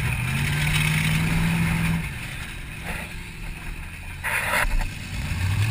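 A 1994 Mercury Grand Marquis's 4.6-litre V8, heard from inside the cabin, revs up and holds high for about two seconds, then eases off to a lower run. A short hissing, scraping burst comes about four seconds in, and the engine revs up again near the end.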